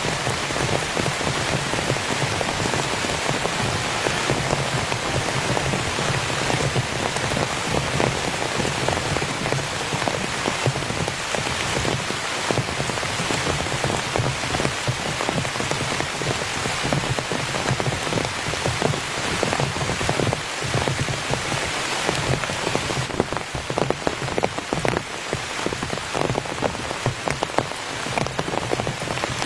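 Heavy rain falling on a tent: a steady dense hiss of countless drop impacts. About 23 seconds in, the highest hiss eases and single drops stand out more.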